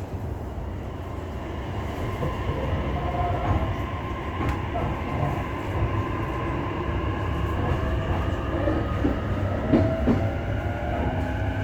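JR commuter electric train running, heard from inside the passenger car as it pulls away: a steady low rumble of wheels on rail with light knocks over the joints, slowly getting louder, and a faint motor whine rising in pitch near the end as the train gathers speed.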